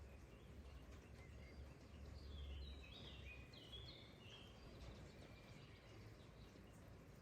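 Faint birdsong: a quick series of short, high chirps about two to four seconds in, over a low background rumble.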